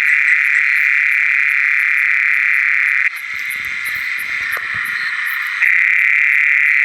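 Dense chorus of many frogs calling at once, a continuous high-pitched wall of sound: breeding calls after heavy rain. It drops in level about three seconds in and comes back louder near the end.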